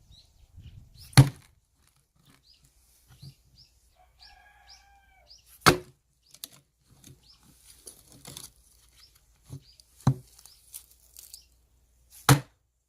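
Four sharp blows of an axe into firewood logs, spaced a few seconds apart, with small knocks of wood between them.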